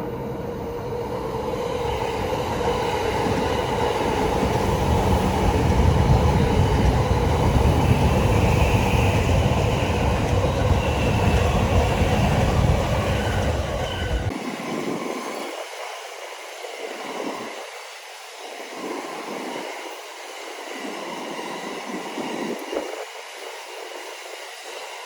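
Electric commuter train passing close by a level crossing, its rumble building to its loudest between about 6 and 12 seconds in. About 14 seconds in the deep rumble cuts off abruptly and a quieter, wavering sound follows.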